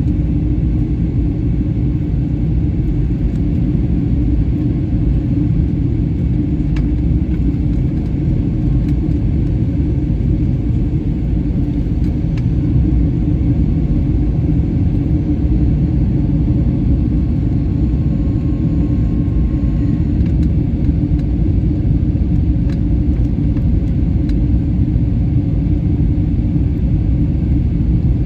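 Steady low rumble of an Airbus A320-family airliner's jet engines and airflow, heard from inside the passenger cabin during the descent. A few faint clicks stand out lightly above it.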